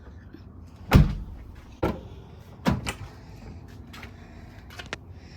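A few knocks and thumps from handling the packed sedan and its load: the loudest about a second in, two more within the next two seconds, then a couple of faint clicks.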